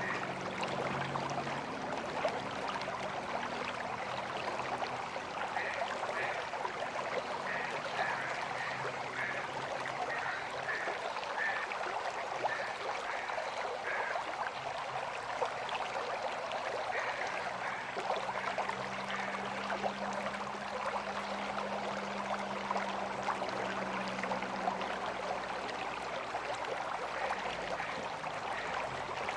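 River water flowing steadily, a constant rushing noise. Short high-pitched chirps come and go over it in the first half, and a faint low hum joins for several seconds in the second half.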